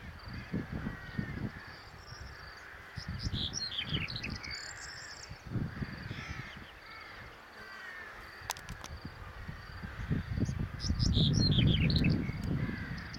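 Birds calling: two series of sharp calls that slide down in pitch, with softer chirping throughout. Under them is a low rumble on the microphone, loudest near the end.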